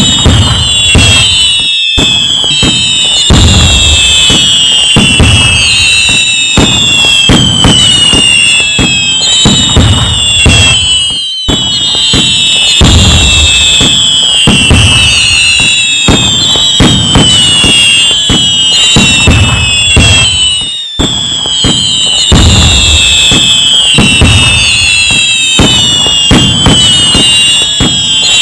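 A dense fireworks barrage: many whistling fireworks gliding in pitch, most falling, over a steady run of bangs. The sound cuts out for an instant about every nine and a half seconds and starts the same pattern again.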